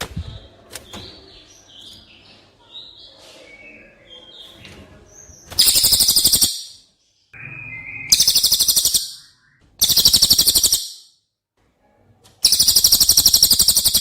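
Bird song: a run of soft, varied whistled notes, then four loud, rapid rattling trills of about a second each.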